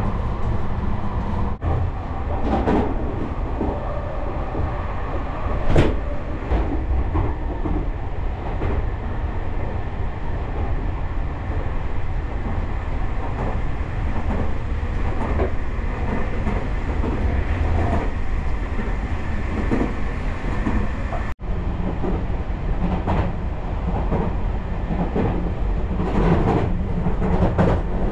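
Tobu Spacia X (N100 series) passenger car running, heard from inside the cabin: a steady low rumble of wheels on rail with occasional sharp knocks, the loudest about six seconds in. The sound cuts out for an instant twice.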